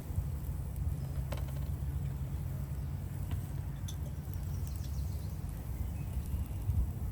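Steady low wind rumble on the microphone, with a few light clicks scattered through it.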